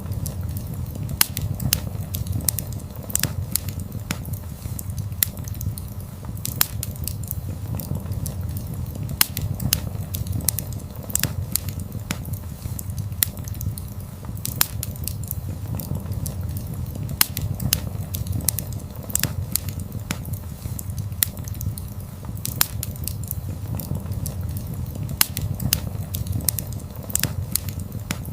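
Wood fire burning, with a steady low rumble of the flames and frequent sharp crackles and pops from the burning logs at irregular intervals.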